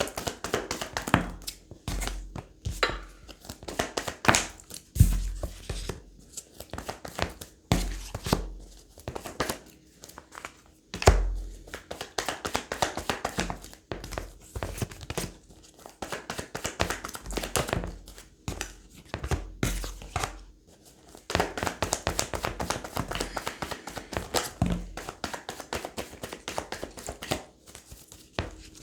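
A tarot deck being shuffled by hand: continuous crisp rustling and flicking of cards, broken now and then by a heavier thump.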